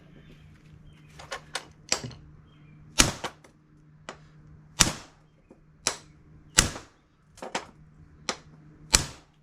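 Hammer striking a pin into a GM A-body car door hinge: about a dozen sharp metallic blows, a few light taps followed by heavier strikes roughly every second or two, driving a tight-fitting hinge pin home.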